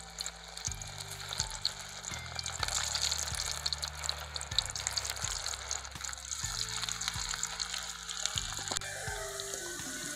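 Bitter gourd pieces coated in a spiced flour batter deep-frying in hot oil in a kadai, a steady sizzle full of small crackles and pops as more pieces are dropped in.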